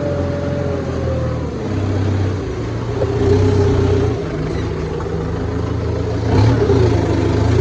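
Tractor engine running steadily, swelling louder about three seconds in and again near the end as its load or speed rises.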